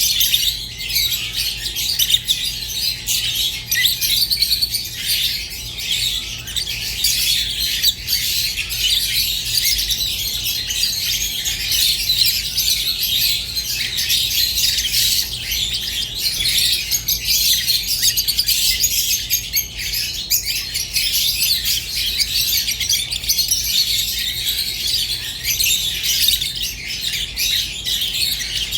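Lovebirds, peach-faced and Fischer's, chattering without a break in a dense stream of high-pitched chirps and squawks.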